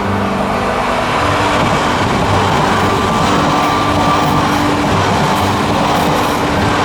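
E3 series Shinkansen train running at speed: a loud, steady rush of wheel and air noise, with background music faintly underneath.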